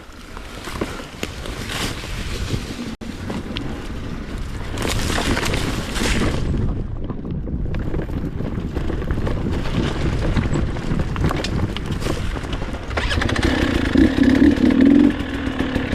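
Dirt bike engine running, with the bike moving over rough ground. From about 13 s in, a louder grating, humming sound rises over it for about two seconds; it comes just before the rider says to listen to his front brake, which the riders say sounds bad.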